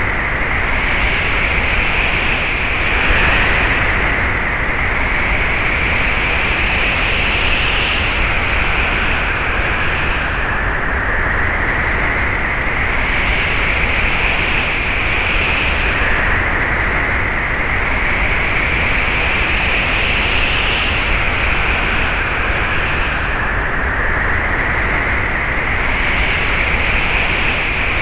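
Wind sound effect: a steady rush of wind. Over it, a high whistle rises slowly in pitch and drops back every few seconds, like gusts.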